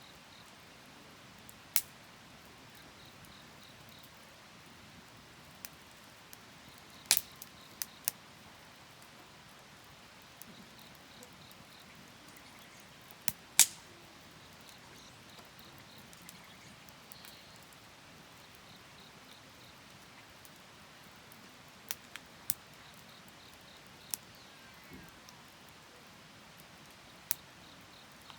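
Wood fire burning: sharp, irregular pops and cracks a few seconds apart over a quiet steady hiss.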